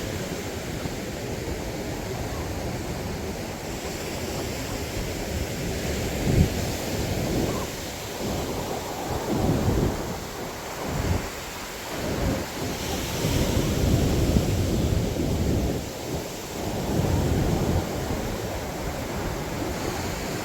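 Wind buffeting the microphone over the steady wash of surf on a beach. The low rumbling gusts rise and fall irregularly, growing stronger about six seconds in.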